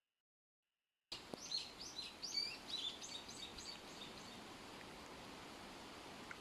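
Birds chirping outdoors: a quick run of short, rapid chirps starts abruptly about a second in and carries on for about three seconds, then gives way to steady background hiss.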